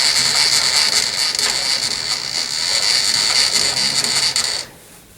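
Milling machine end mill cutting metal: a loud, steady hissing cut with a high-pitched whine, cutting off suddenly near the end.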